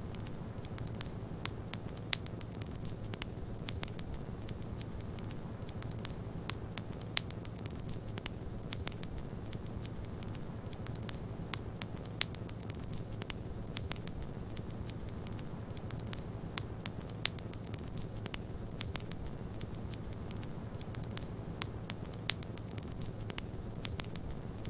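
A wood fire crackling, with frequent small clicks and a few louder pops scattered throughout, over a steady low rushing noise.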